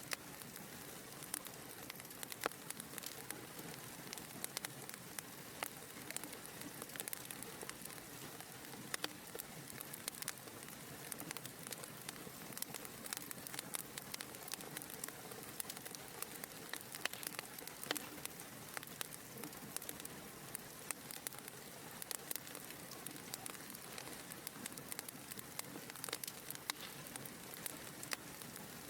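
Wood fire burning in a fireplace: a steady hiss with frequent small, irregular crackles and pops.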